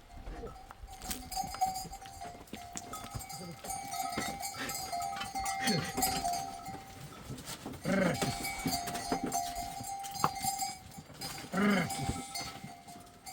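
A herd of sheep and goats, several animals bleating three times, at about six, eight and twelve seconds in, over a livestock bell that rings with a steady tone, on and off.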